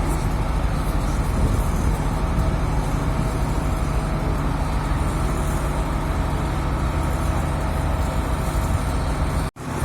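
Moskva-type river passenger boat's diesel engine running steadily under way, a deep, even rumble. It cuts out abruptly for a split second near the end.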